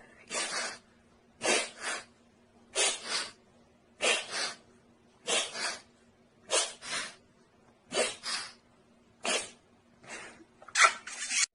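An animal making a run of about nine short, breathy, sneeze-like puffs, each in two quick parts, about one every 1.3 seconds.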